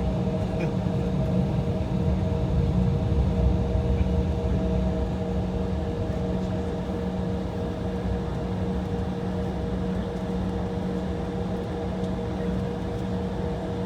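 Steady cabin hum inside an Embraer E175 holding on the taxiway, from its idling jet engines and cabin air conditioning, with a few constant droning tones over a low rush.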